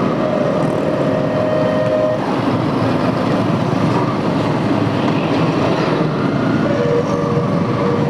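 Yamaha R15 V3 motorcycle riding slowly through dense city traffic: steady engine, road and traffic noise, with a held tone in the first two seconds and another near the end.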